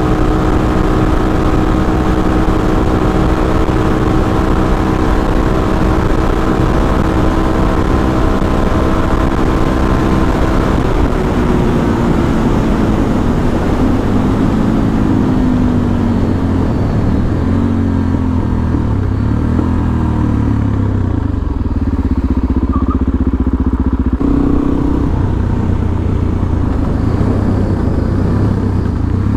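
Suzuki DR-Z400SM's 398 cc single-cylinder four-stroke engine held at steady high revs at highway speed on tall 16/38 gearing, with wind rush. About eleven seconds in the revs drop and waver as the bike slows, ending at low, uneven revs.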